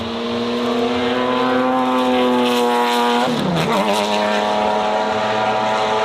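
Race car engine running hard at high revs with a steady, even note that climbs slightly. About three seconds in the pitch drops sharply for a moment, as on a gear change or throttle lift, then comes straight back up.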